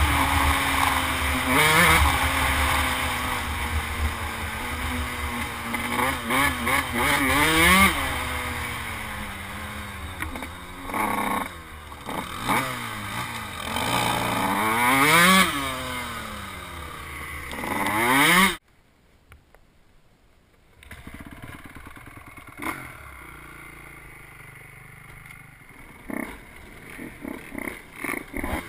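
Dirt bike engine revving up and falling back again and again as the bike is ridden. About two-thirds of the way through the sound cuts out for about two seconds, then the engine comes back fainter.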